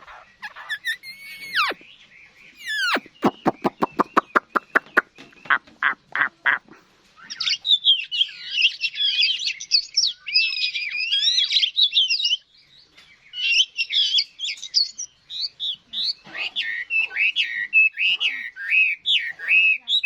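Chinese hwamei (họa mi) singing: loud whistled slurs, then a fast run of repeated notes, then long, rich, varied warbled phrases.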